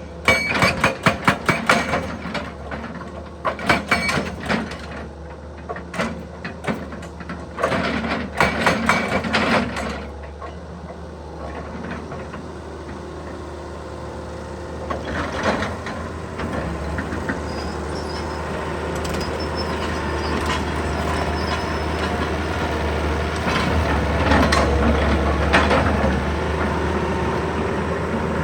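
Excavator engine running, with bursts of rapid knocking like a hydraulic hammer at work during the first ten seconds. The engine then runs steadily and slowly grows louder.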